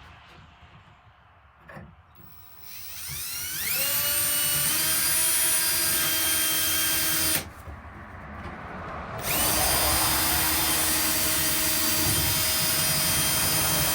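Power drill spinning up with a rising whine and running steadily for a few seconds, stopping, then starting again and running on.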